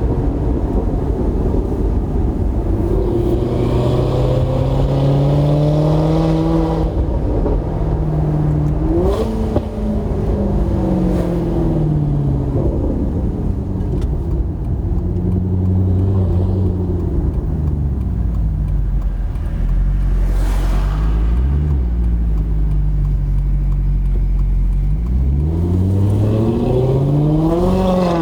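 2008 Maserati GranTurismo's 4.2-litre V8 through a Kreissieg aftermarket exhaust, its revs rising and falling several times. The pitch climbs in the first seconds, drops away, holds low and steady through the middle, then climbs sharply near the end.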